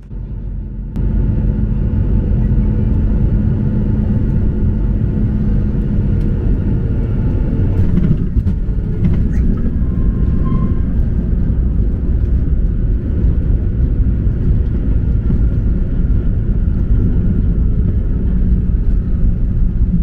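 Boeing 737-800 cabin noise during landing: a loud, steady low rumble that steps up sharply about a second in and then holds.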